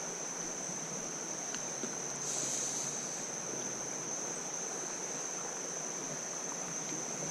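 Creek water running steadily over rocks, with a continuous high-pitched insect drone over it.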